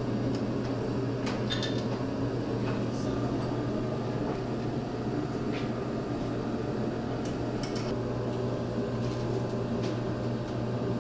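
A steady mechanical hum, like a fan or heater running in a garage workshop, with a few light clicks scattered through it.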